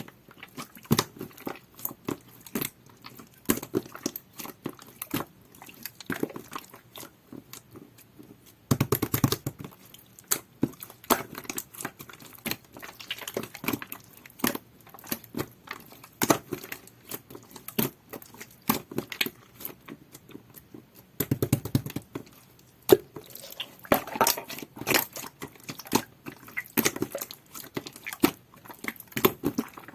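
Clear, jelly-textured slime with stickers mixed in, squeezed and poked by hand: a stream of sticky clicks and pops, with two denser bursts of squishing about nine and twenty-one seconds in.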